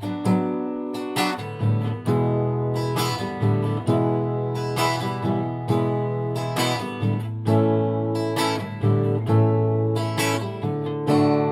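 Instrumental introduction of a chanson song, led by acoustic guitar chords strummed and plucked in a steady rhythm, without singing.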